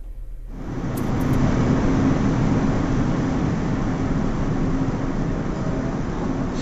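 Car on the move: a steady rush of road and wind noise with a low hum, starting about half a second in and growing over the next second before holding steady.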